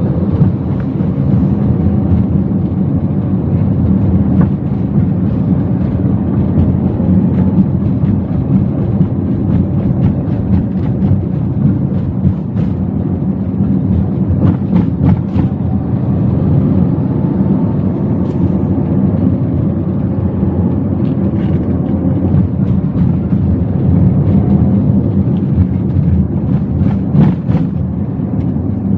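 Steady drone of road and engine noise heard from inside a Toyota Wigo's cabin while it is driven, with a few faint short knocks.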